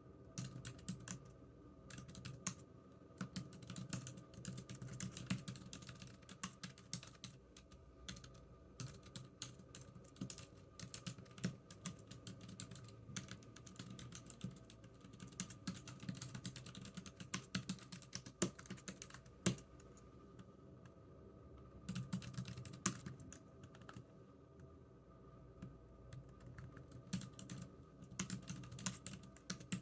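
Computer keyboard being typed on steadily, a rapid run of key clicks in bursts with a couple of brief pauses.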